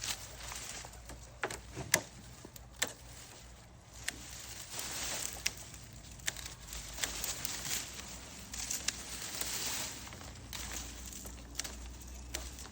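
Irregular rustling and crinkling with scattered sharp clicks and knocks, as things are moved about and cleared off a surface by hand. The sharpest knocks come about two seconds in and just after.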